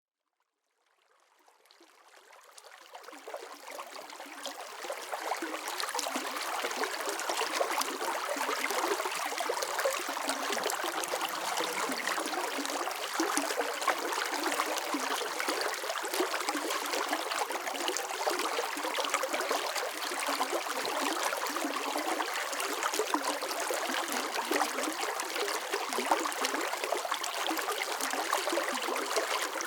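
Running water flowing and splashing steadily, fading in from silence over the first few seconds.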